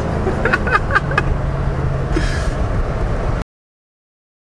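Turbocharged BMW 330i inline-six engine running steadily while under way, with a few short sharp sounds about half a second to a second in. The sound cuts off abruptly about three and a half seconds in.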